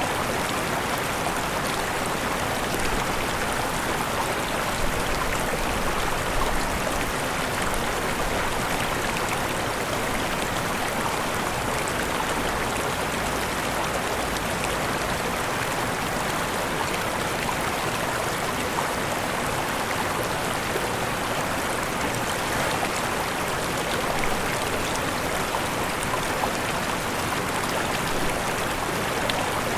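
Steady rushing of falling water from a waterfall, an even, unbroken noise without pauses.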